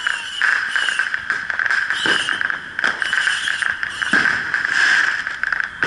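Fireworks going off: a continuous high crackling hiss with a whistling edge, and a couple of dull bangs about two and four seconds in.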